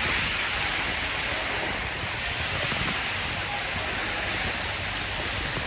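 Steady, even rushing noise of a city street in a snowstorm: wind and distant traffic blend into one wash with no distinct events.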